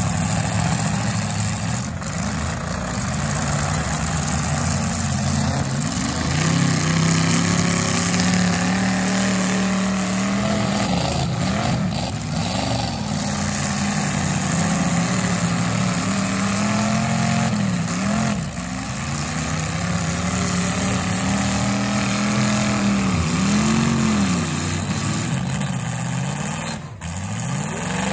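Demolition derby car engines revving hard again and again, the pitch climbing and dropping several times as the cars push against each other.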